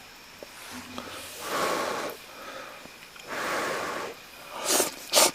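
A person blowing twice on a hot mouthful of kimchi hotpot to cool it, then a few sharp, loud mouth sounds near the end as they take the bite.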